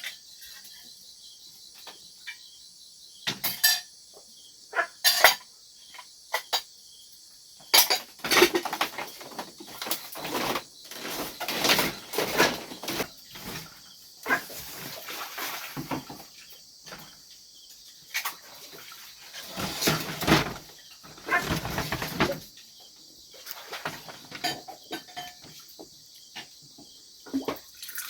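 Irregular knocks and clattering of hard objects being handled, sparse at first, then thicker with scraping noise through the middle, then sparse again.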